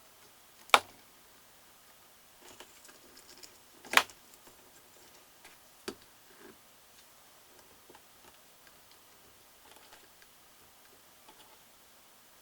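Small plastic Magic Clip dress pieces being unclipped and snapped onto a small doll: three sharp clicks, about 1, 4 and 6 seconds in, the middle one loudest, with faint handling ticks between.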